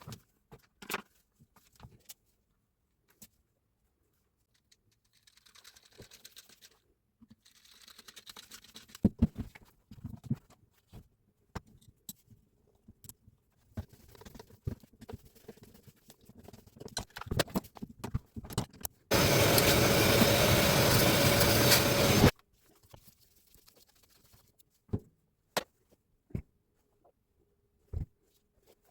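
Scattered clicks, clinks and knocks of tools and metal parts being handled and worked on during a power-tool repair, with some scraping. About two-thirds of the way through, a loud steady noise runs for about three seconds and cuts off suddenly.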